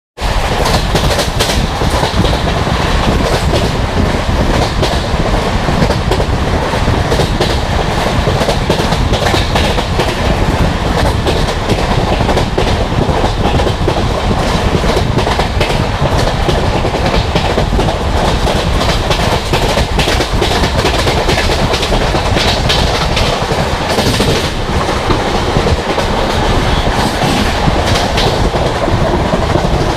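Express passenger train running at about 130 km/h, its wheels giving a steady loud rumble and a dense clickety-clack over the rail joints.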